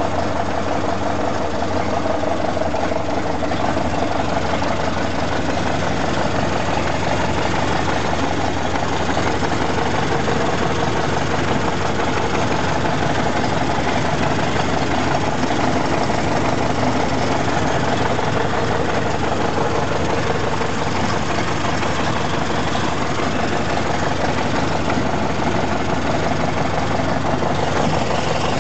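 1930 Ford Model A's four-cylinder flathead engine running steadily at idle, heard close up at the engine bay.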